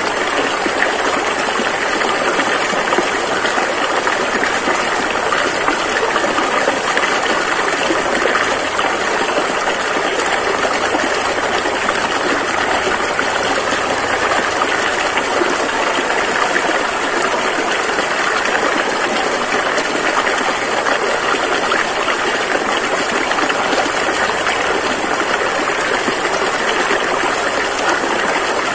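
River water rushing over rocks, a steady, dense rush of running water.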